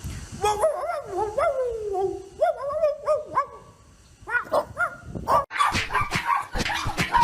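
A dog howling and whining in short sliding yowls, then after a brief pause a rapid run of high-pitched yips and barks.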